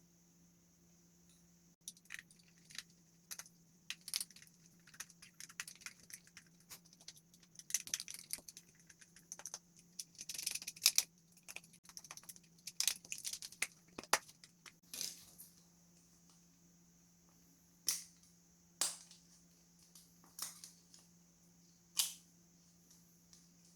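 Small hard plastic parts being handled and fitted together by hand: irregular clicks, taps and short scraping rustles, busiest in the middle, then a few single sharp clicks near the end, over a faint steady hum.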